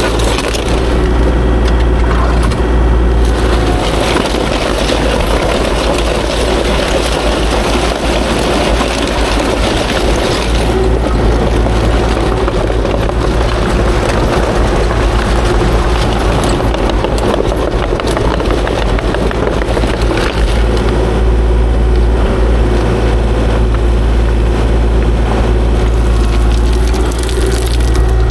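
Kubota KX040-4 excavator's diesel engine running steadily.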